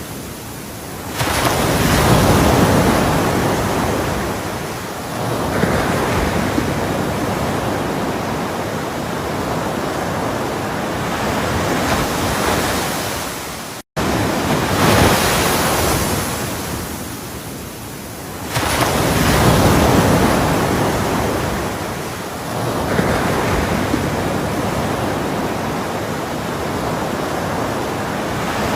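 Ocean waves breaking on a shore, each break followed by a long hissing wash of surf. Two big waves break, about a second in and again a little after halfway. There is a momentary gap of silence just before halfway.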